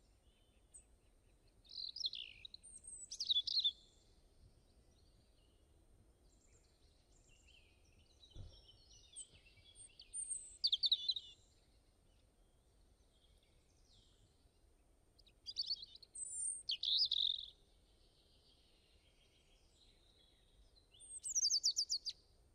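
Birds chirping in short, quick phrases, coming in four bouts a few seconds apart.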